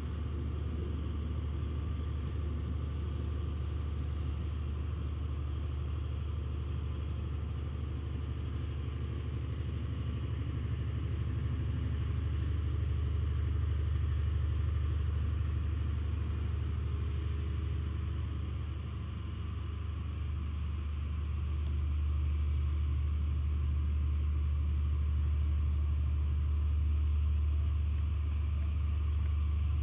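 Diesel engine of the E001-series Shiki-shima cruise train running as the train moves under engine power in yard shunting: a steady low rumble that grows louder in the second half.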